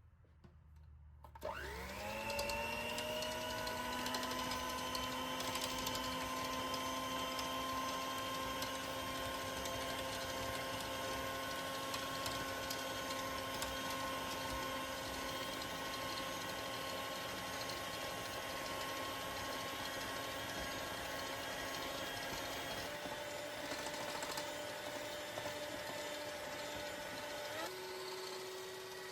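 Electric kitchen mixer motor starting up about a second in, whining up to speed and then running steadily, with its pitch shifting twice near the end.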